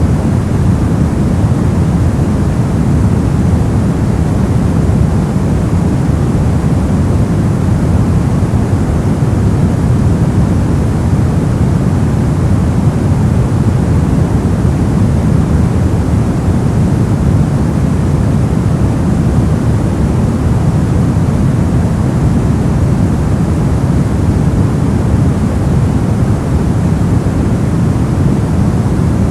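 Steady, unbroken white noise for sleep masking: an even, deep rushing hiss with most of its weight low, rather than a bright hiss, and no change at all.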